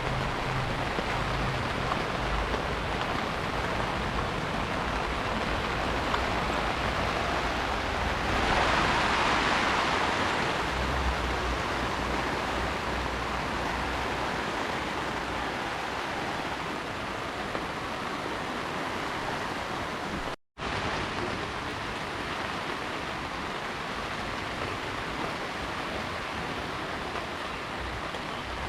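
Heavy rain falling steadily, a dense even hiss that swells louder about nine seconds in. The sound drops out completely for a split second about twenty seconds in.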